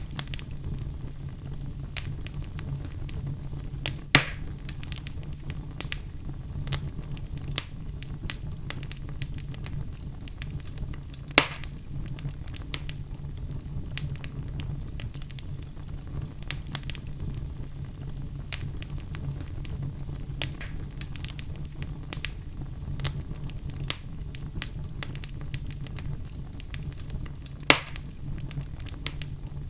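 Wood logs burning in a fireplace: a steady low rumble of flame under frequent small crackles, with three louder pops, about 4, 11 and 28 seconds in.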